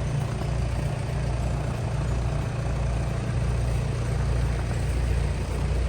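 Firewood processing equipment engines idling steadily while they warm up, making a continuous low hum.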